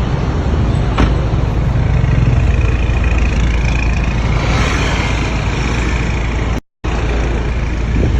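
Mini Cooper driving, with a steady low engine and road rumble and a faint rising whine as it picks up speed in the middle. There is a sharp click about a second in, and the sound cuts out briefly near the end.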